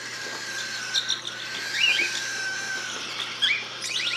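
Baby cockatiels chirping and calling, with short rising and falling chirps over a thin, steady high tone.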